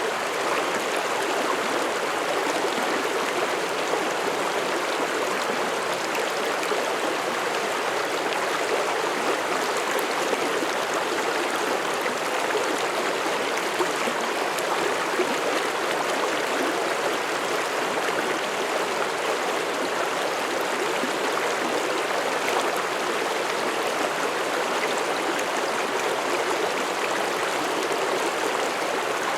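Mountain stream rushing and gurgling over rocks in a steady flow.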